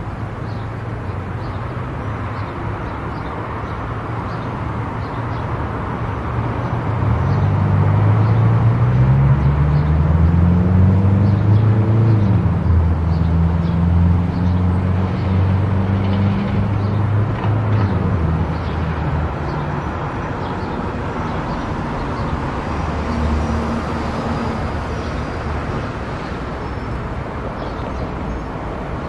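A car driving on an expressway: steady road and tyre noise. A louder low engine drone swells from about a quarter of the way in, rising in pitch over the next few seconds, and fades again past the middle.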